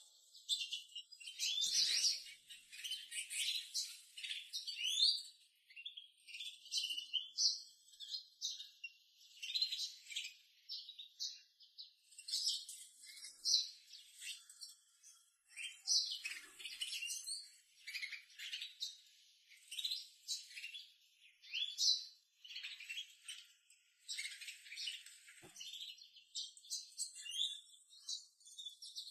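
Newly hatched, hand-reared cage-bird chick giving high, thin begging chirps in quick irregular runs while it is being hand-fed.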